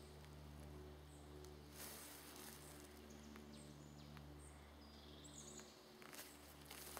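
Near silence in a forest: a few short, faint, high bird chirps and a couple of faint steps or rustles on the forest floor over a steady low hum.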